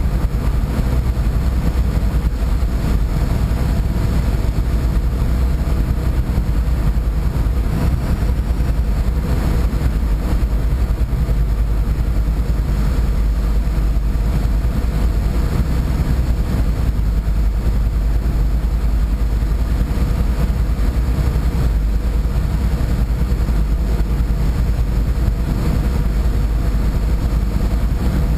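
Boat's engine running steadily under way: a loud, even, deep drone with a few faint steady tones above it, unchanging throughout.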